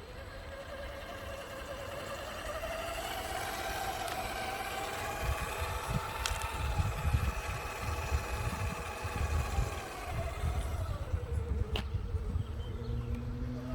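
Electric drivetrain of an Absima Sherpa RC scale crawler whining as it drives, rising in pitch as it speeds up, holding, then dropping away near the end, over a rough rumble and a couple of sharp clicks.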